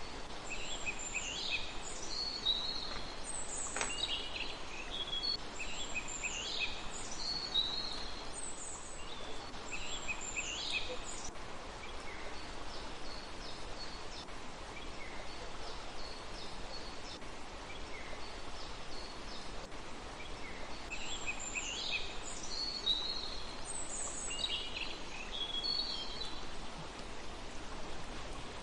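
A small songbird singing bursts of quick high chirps and short falling notes, phrase after phrase for about ten seconds, then again after a quieter stretch of scattered notes, over a steady outdoor hiss.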